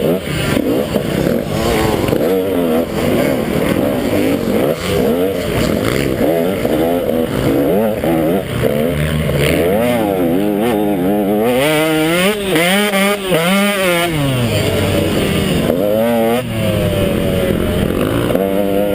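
KTM 150 XC two-stroke dirt bike engine running hard under racing load, its pitch rising and falling again and again as the throttle is worked and gears are changed. About two-thirds of the way through comes a run of quick revs up and down.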